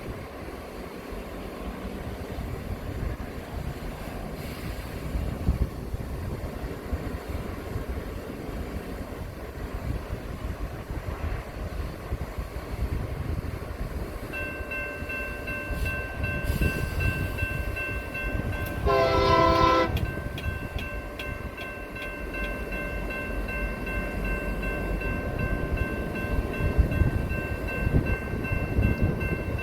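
A railroad air horn sounds one short blast about two-thirds in, over a steady low rumble. About halfway in, a steady high whine of several tones sets in and keeps going.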